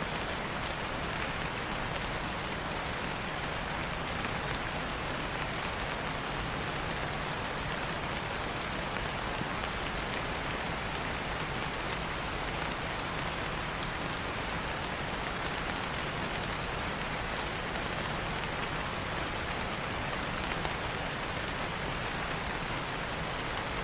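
Steady rain falling and pattering on a surface, an even continuous hiss.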